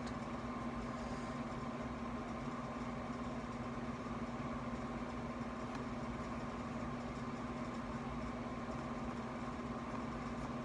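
A steady machine hum at one unchanging pitch, with no other distinct sounds.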